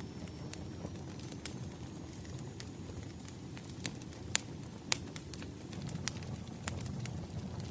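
Wood fire crackling: a steady low rumble of burning logs with scattered sharp pops and snaps, the two loudest a little past halfway.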